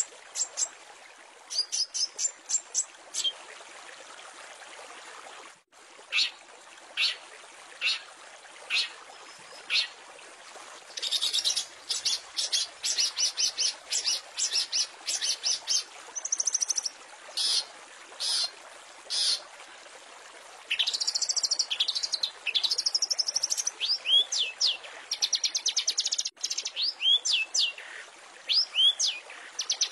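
Long-tailed shrike (cendet) singing its varied mimicking song over a steady hiss like running water. It opens with strings of short, sharp high notes, then about ten seconds in gives rapid dense trills, and later high whistles that sweep sharply downward.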